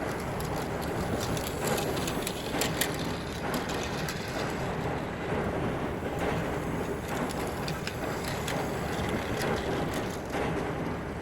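Battery-powered Plarail toy steam locomotive running along plastic track: a steady motor and wheel rumble with irregular clicks and rattles.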